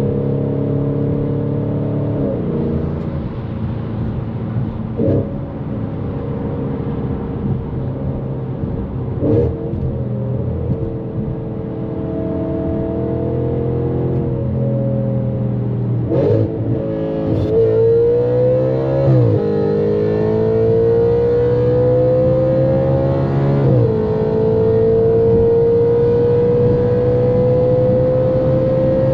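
Straight-piped Audi RS5's 4.2-litre V8 pulling hard at speed, its note climbing slowly and dropping sharply at several gear changes. In the last few seconds it rises steadily in one gear.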